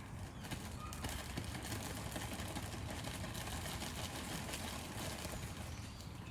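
Steady crackling hiss of food steaming and cooking over the fire stand.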